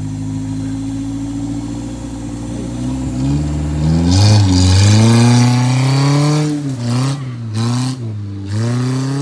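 Off-road 4x4's engine idling steadily, then revved hard about three seconds in. It rises and falls several times as the throttle is worked on and off, with a brief rushing hiss during the loudest revving.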